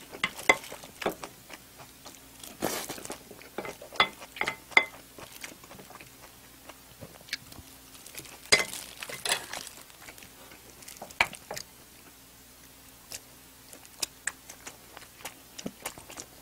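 Close-up eating sounds of someone chewing a mouthful of jjajang rice: wet mouth smacks and scattered sharp clicks at irregular moments, with a few louder clusters.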